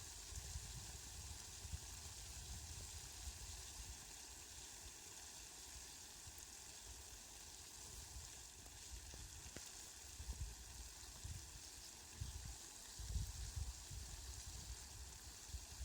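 Steady rain falling, a faint even hiss, with irregular low rumbles coming and going in the second half.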